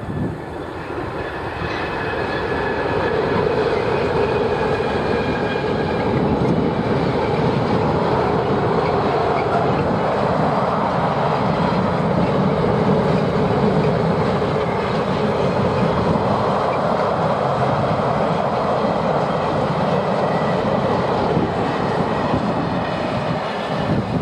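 Container freight train passing over a girder bridge: a steady rumble of wagons that builds over the first few seconds and then holds, with faint high whining tones during the first several seconds.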